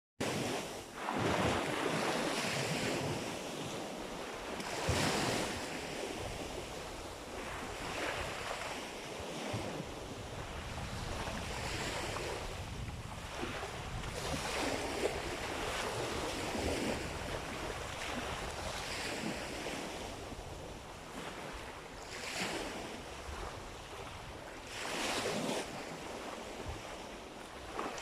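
Sea waves surging and washing in, one swell every few seconds, with wind buffeting the microphone.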